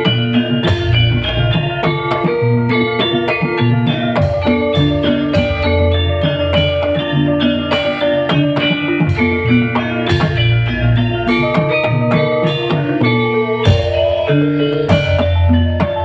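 Live band playing an instrumental passage: guitar over a steady bass line and a regular drum beat.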